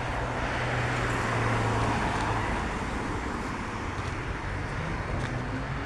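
Road-traffic noise: a steady rushing hum that swells to a peak about two seconds in and then eases off, as a vehicle passes.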